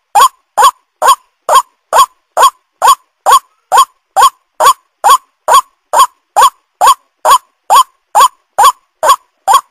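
White-breasted waterhen (ruak-ruak) calling: the same short call repeated evenly, about two a second, without a break.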